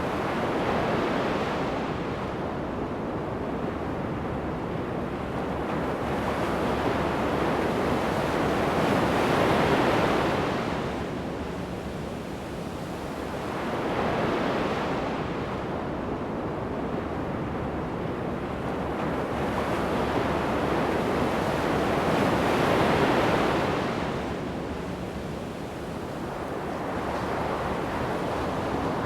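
Ocean surf breaking and washing up a sandy beach, the rush swelling and ebbing in long surges as each wave comes in, with some wind on the microphone.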